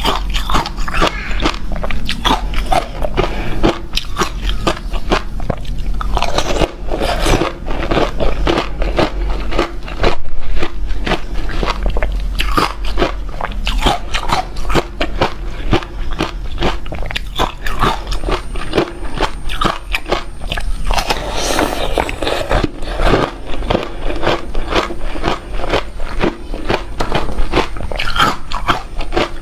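A person biting and chewing crunchy ice close to the microphone: a dense, unbroken run of sharp crunches, over a steady low hum.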